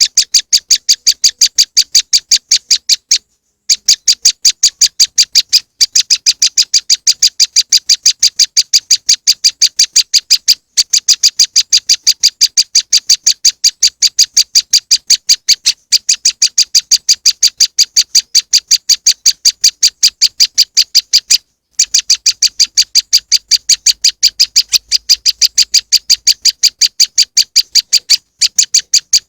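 Prenjak lumut (moss wren) song played as a bird lure: a rapid, even series of high chip notes, about six a second, broken by brief pauses every few seconds.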